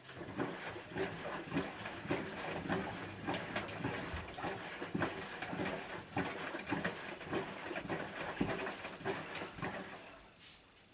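Bosch WAN28220FF front-loading washing machine on a Synthetics 40 °C wash, its drum turning, with wet laundry and water sloshing and thudding irregularly. The drum stops near the end, the usual pause before it turns again.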